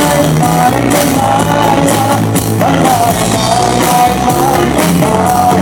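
Live pop band playing loud and steady through a short gap between chorus lines, with bass and drums under a held, gently wavering melody line.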